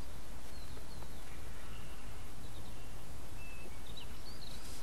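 Faint bird calls, a handful of short high chirps and whistles scattered through, over a steady background noise.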